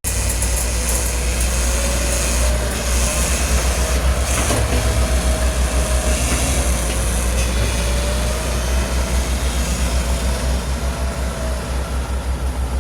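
Heavy diesel earth-moving machinery running close by, a deep pulsing rumble with a faint wavering whine above it and a few metallic knocks.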